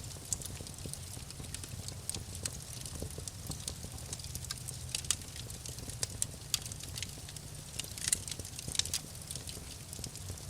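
Wood fire crackling in a fireplace: irregular sharp pops and snaps, several louder ones in the second half, over a low steady rumble.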